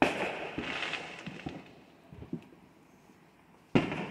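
Fireworks going off: a sharp bang followed by crackling and a few smaller pops dying away over about a second and a half, then a second bang near the end.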